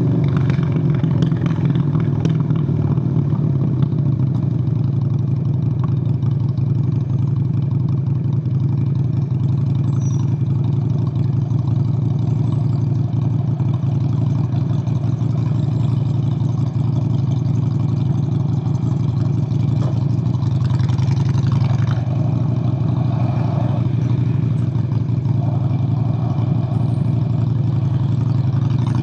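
Honda Steed VLX 600 (Shadow 600) V-twin motorcycle engine running at a steady, even pace while riding, with no big revs or gear changes. A brief rushing sound joins in about twenty seconds in.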